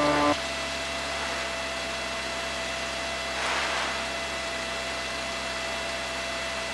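Steady hiss with a faint electrical hum on a cockpit radio and intercom audio line between transmissions, with a brief swell of hiss about three and a half seconds in.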